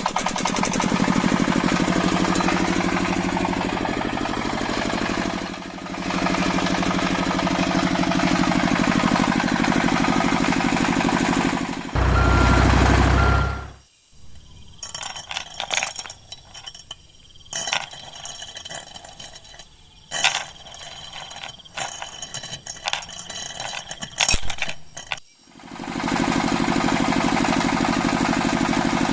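Steady engine running, like a tractor's, for the first twelve seconds. A loud low burst follows, then a quieter stretch of scattered clinks and knocks, and the engine sound returns near the end.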